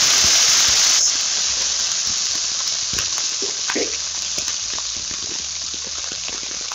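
Sliced yardlong beans, potato sticks and onion sizzling in hot oil in a wok just after being tipped in: loud frying hiss that drops a little about a second in, then a steady sizzle that slowly fades, with scattered small clicks.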